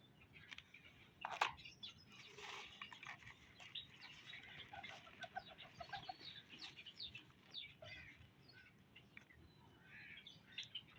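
Faint bird calls: many short chirps in quick succession, with a sharp knock about a second and a half in.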